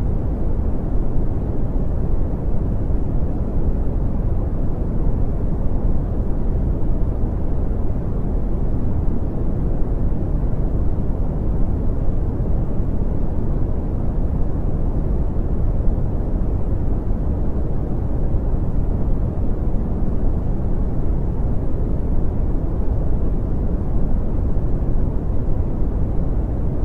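Brown noise: a steady, deep rumbling hiss with most of its energy in the low end and little above about 2 kHz, unchanging throughout.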